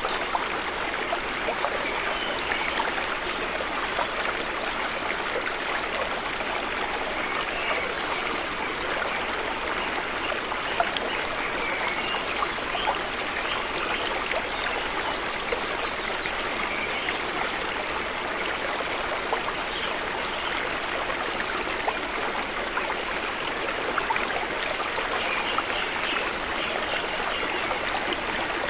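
River water flowing steadily over rocks, a constant rushing with small trickling and splashing sounds throughout.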